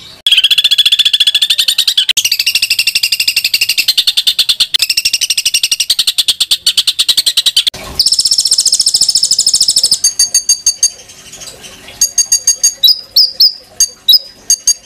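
Songbird song of the harsh, rapid 'tembakan' kind: long trills of very fast repeated notes that shift to a new pitch every second or two. Near the middle the song breaks off into another rapid trill, followed by sparser sharp chips and quick stuttered note groups.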